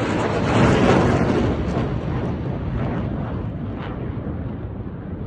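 Fighter jet flying past, its engine roar swelling to a peak about a second in and then slowly fading away.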